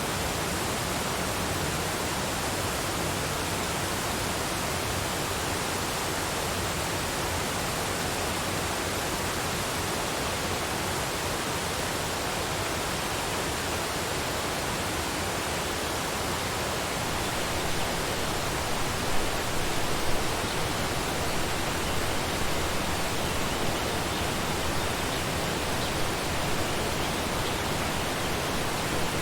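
Waterfall: a steady, even rush of falling water, with a few slightly louder splashes a little past halfway.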